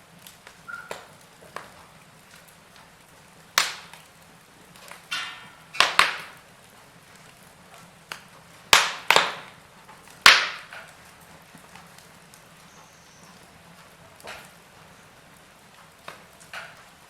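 Wood fire burning in a fireplace: sharp crackles and pops over a faint low hiss, with a cluster of loud snaps in the middle.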